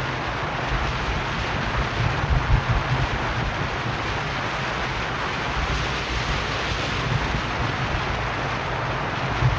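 Steady road and wind noise from a moving car, with an uneven low rumble of wind buffeting the microphone.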